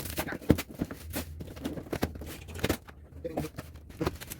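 Irregular clicks, knocks and rustles of packaging and parts being handled while a pressure washer is unboxed.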